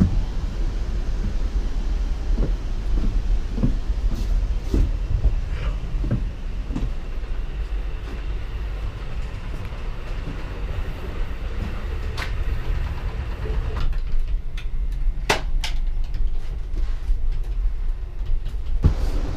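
Passenger train car rolling along the rails, a steady low rumble with scattered clicks and knocks, a few sharper ones in the second half.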